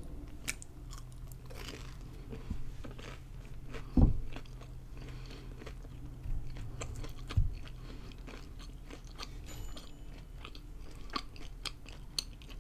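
Close-miked chewing of breaded mozzarella sticks: many small scattered clicks from the mouth and the crust, with two low thumps about 4 and 7.5 seconds in.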